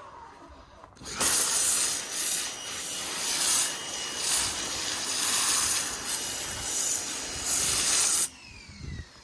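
Pressure washer foam cannon spraying suds in a steady hiss, starting suddenly about a second in and cutting off about eight seconds in as the trigger is released.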